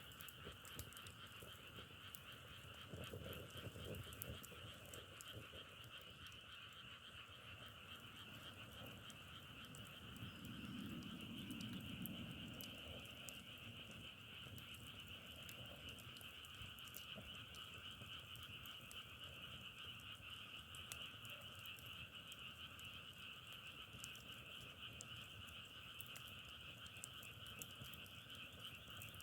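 A dense frog chorus calling steadily, a continuous trilling at two pitches, with faint scattered clicks throughout. A brief low rumble swells about ten seconds in.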